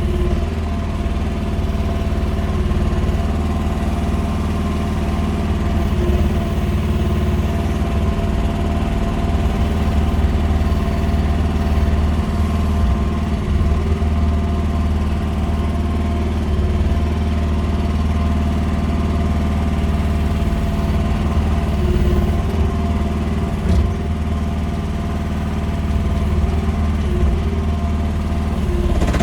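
Small Chinese mini excavator's engine running steadily.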